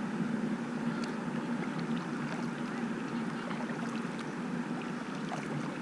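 Steady rush of river water in a strong current around a kayak, with faint small splashes and ticks.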